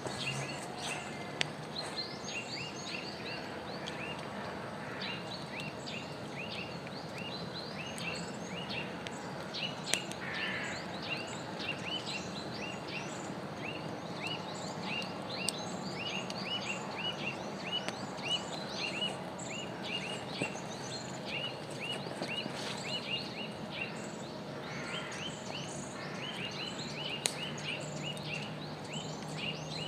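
Small birds chirping, many short high calls repeated in quick runs, over a steady background hiss.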